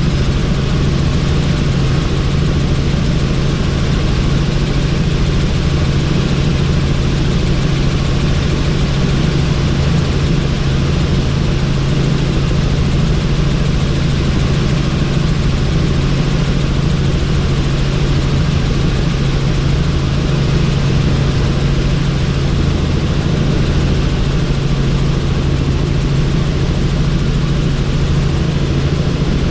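Helicopter in flight heard from on board with the doors off: the engine and rotor make a steady, loud low drone, under a constant rush of wind noise.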